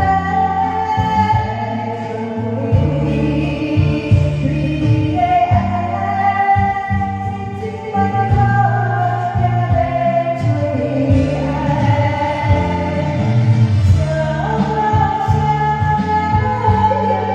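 A woman singing a song over a karaoke backing track.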